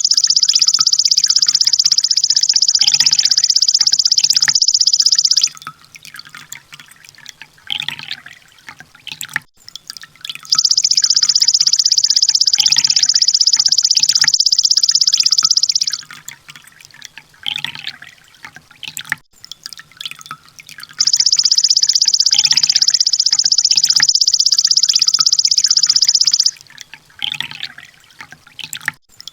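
Konin (kolibri ninja) sunbird song from a bird-training recording: three long bursts of rapid-fire, high-pitched ticking notes, the full 'tembakan' song, each about five seconds long, with softer scattered chirps between them.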